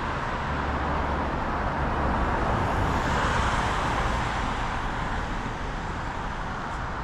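Road traffic on a city street: a steady rush of vehicle and tyre noise, with one vehicle passing close and growing louder about two to four seconds in before easing off.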